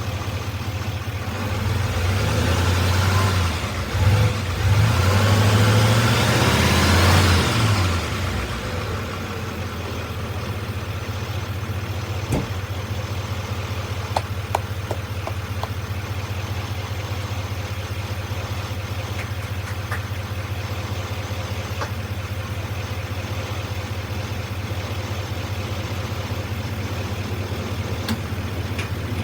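A vehicle engine running: revved up and down for a few seconds near the start, then settling into a steady idle, with a few faint clicks in the middle.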